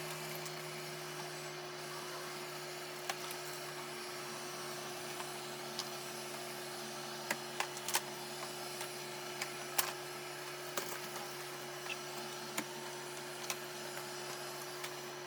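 Eufy RoboVac G30 Hybrid robot vacuum running: a steady motor hum over a faint hiss, with scattered sharp ticks, several close together around the middle.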